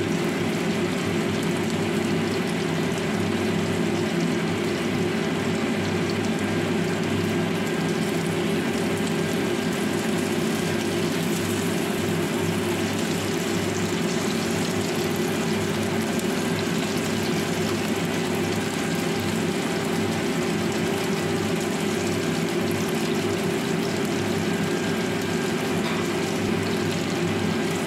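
Chicken wings sizzling in shallow oil in a wok, a steady even frying sound, over a constant low hum.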